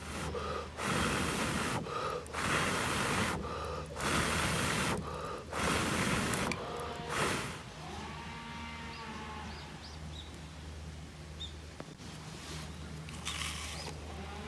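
A person blowing or breathing out hard five times in quick succession, each puff about a second long, followed by a quieter steady low hum.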